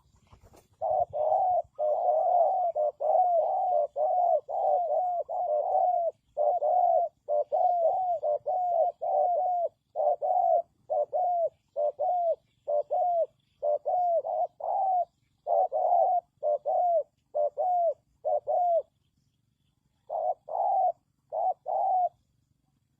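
Spotted dove cooing: a long run of short, arched coo notes, about two a second, broken by a pause near the end before three more notes.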